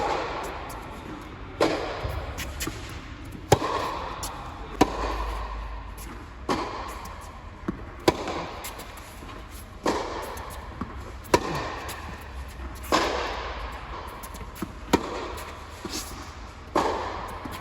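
Tennis rally: a ball struck back and forth by racquets, with sharp hits about every one and a half to two seconds and lighter bounces between. The hits echo off the hall around the court.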